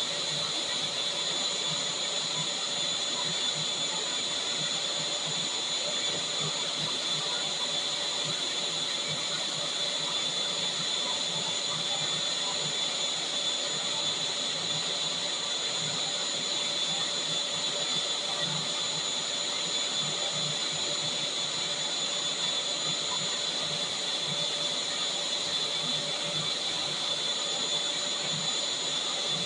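Vacuum cleaner running steadily: a constant rush of air with a high motor whine, unchanging throughout.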